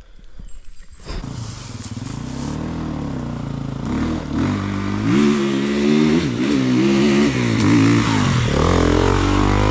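Enduro motorcycle engine running and revving up and down with the throttle, growing louder from about a second in.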